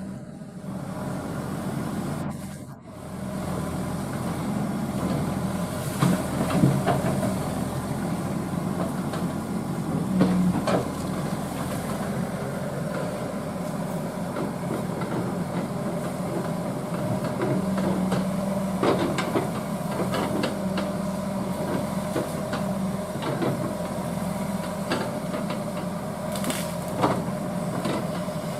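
Excavator's diesel engine running steadily, with scattered sharp cracks and knocks from the machine's work clearing vegetation.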